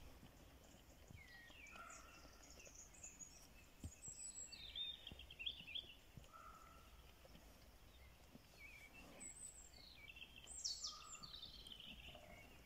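Faint birdsong: scattered chirps and short warbling phrases, over near silence.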